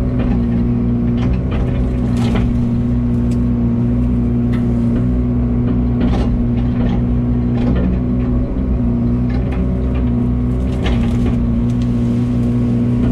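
Excavator engine running steadily under working load while the bucket and thumb pull at brush and fence, with a few short cracks and knocks from the brush and attachment.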